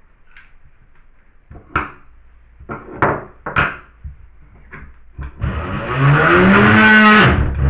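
A few clicks and knocks of a tool being handled, then a Dremel rotary tool running loudly from about five and a half seconds in, its pitch rising and then falling as it cuts.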